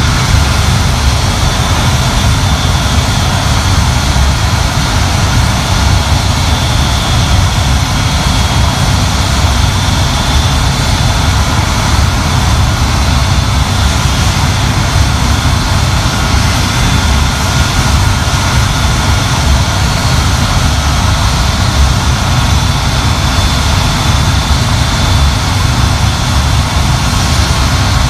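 Avro Vulcan XM655's Rolls-Royce Olympus turbojet engines running steadily during a ground run. A loud, deep rumble holds at constant power, with a steady high whine over it.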